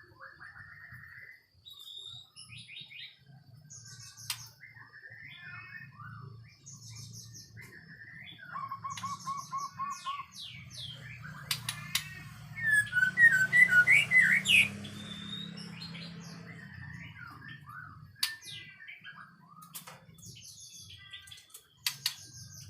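White-rumped shama (murai batu) singing a varied song of whistles, trills and a run of quick repeated notes, loudest in the middle of the stretch.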